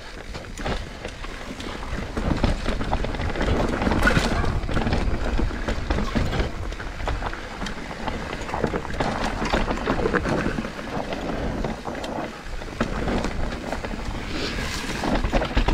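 Mountain bike riding down a dry dirt trail: tyres rolling over loose dirt with the bike rattling and clicking over the bumps, and wind rushing over the microphone.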